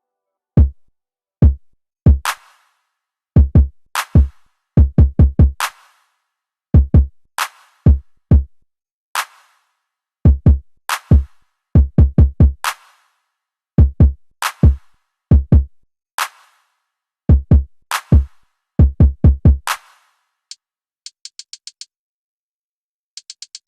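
Programmed lo-fi hip-hop drum-machine beat playing on its own, with no melody: kick drum and snare hits in a loose, syncopated pattern. After about 20 seconds it gives way to two short runs of quick, high ticks.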